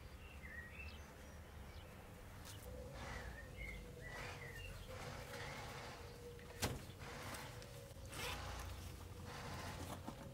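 Birds chirping: scattered short chirps over a faint, steady background, with one sharp click about two-thirds of the way through.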